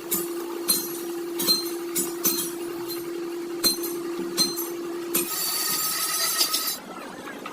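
A series of sharp, ringing strikes on metal, about six at irregular intervals, like hammer blows on car bodywork, over a steady machine hum. The hum stops a little after 5 seconds, and a burst of loud hissing follows for about a second and a half, cutting off suddenly.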